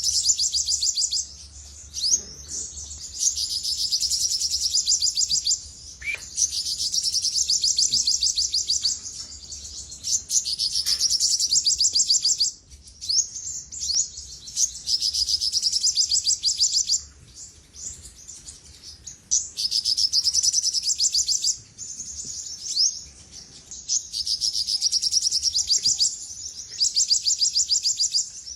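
Olive-backed sunbird singing: long, very fast high-pitched trills lasting several seconds each, repeated with short pauses between them.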